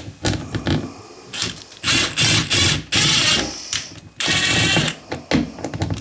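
A power driver drives screws through a toilet flange into the floor to anchor it. It runs in two main bursts with a high whine, after a few small handling clicks.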